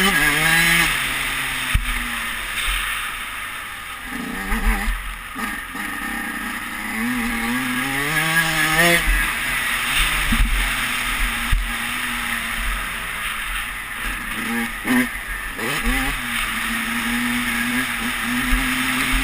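Dirt bike engine being ridden hard on a motocross track, its pitch rising and falling with the throttle and a few quick revs past the halfway point. Wind rushes over the helmet-mounted camera, and there are a few short knocks.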